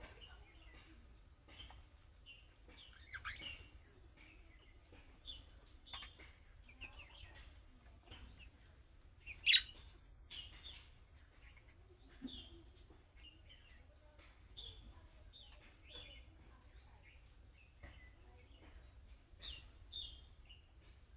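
Budgerigars chirping and warbling in short, scattered calls, with one much louder, sharp chirp about halfway through.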